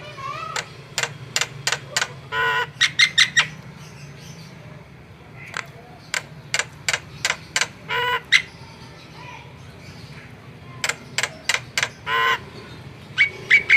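Javan myna calling in three bouts of sharp clicking notes, about three a second, each bout with a short harsh squawk, with pauses between them.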